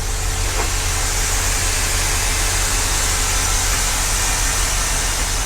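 Reading & Northern GP38-2 #2013's EMD 16-cylinder 645 diesel engine running steadily, heard from inside the locomotive cab: a low, even hum under a broad hiss.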